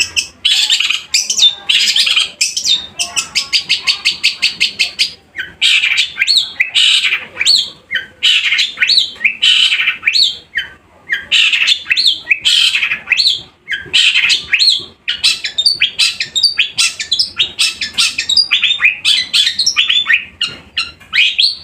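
Long-tailed shrike (cendet) singing loudly and without pause: a dense stream of quick, sharp chirps and chattering phrases, with runs of rapidly repeated notes.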